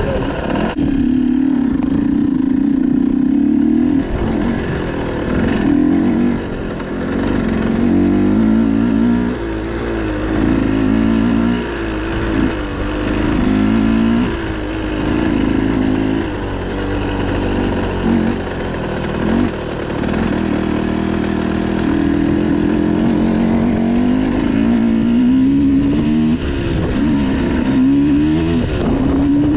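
Motocross dirt bike engine being ridden, its pitch rising and falling over and over as the throttle is opened and closed.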